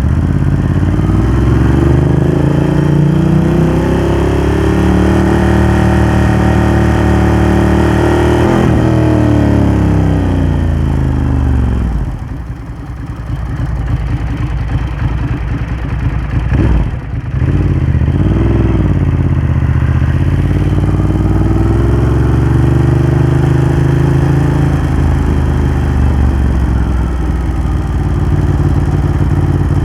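Ducati Hypermotard 1100's air-cooled L-twin running through a Termignoni exhaust under way. The engine note rises and falls with the throttle, drops back about twelve seconds in, dips sharply for a moment a few seconds later, then climbs again.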